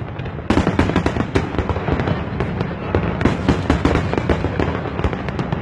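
Fireworks display: a dense barrage of sharp bangs and crackles over a continuous low rumble, with a thicker burst starting about half a second in.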